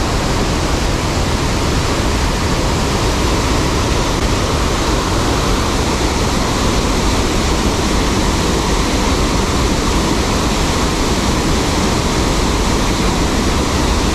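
Waterfall in heavy flow, a gusher: a loud, steady rush of falling water that does not let up.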